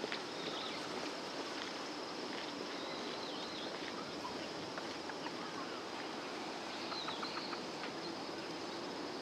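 Outdoor ambience of insects chirring steadily at a high pitch, with a few brief bird calls about three seconds in and again near the seventh second.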